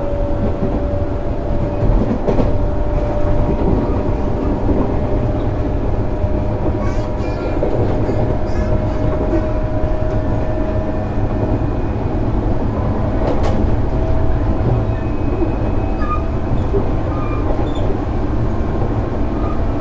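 JR 205 series 600 subseries electric multiple unit running on the line: a steady rumble of wheels on rail with a steady whine that fades out about three quarters of the way through, and a sharp clack from the rails near the start and again past the middle.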